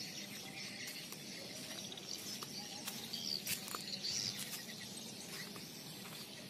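Faint outdoor ambience: scattered short bird chirps over a low steady hum.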